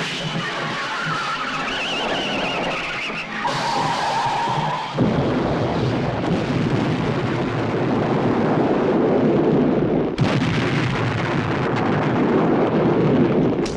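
Film action sound effects of a vehicle: a wavering screech for the first few seconds, then from about five seconds in a dense, loud rushing noise like a speeding vehicle, with a sharp knock near ten seconds.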